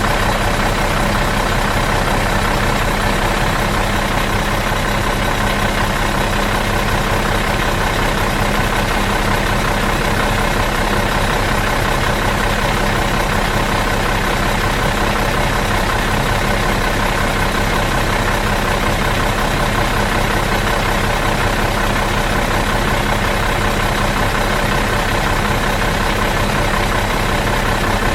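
Bus engine idling in neutral, a steady, even hum with no revving or changes.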